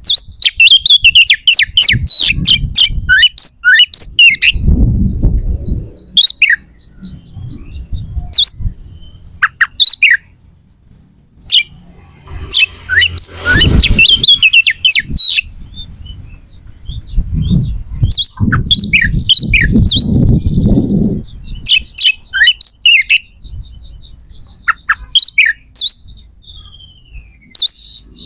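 Birds chirping and squawking in rapid bursts of short, high, downward-sliding calls, with pauses between bursts. Low rumbling noises come and go several times underneath.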